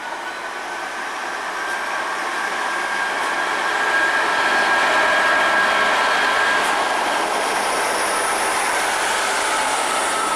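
Class 66 diesel-electric locomotive approaching and passing close at speed with a train of coal hopper wagons. The engine and wheel noise grow steadily louder for the first four seconds or so, then hold at a steady rumble with a few thin high squeals from the wheels as the wagons run by.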